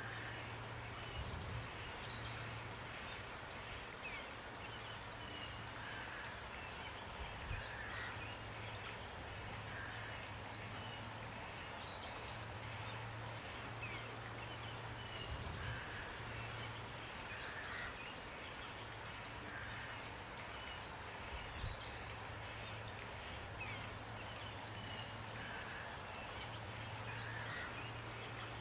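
Steady rain falling, with small songbirds chirping and trilling high in short bursts every few seconds. A faint low hum comes and goes underneath.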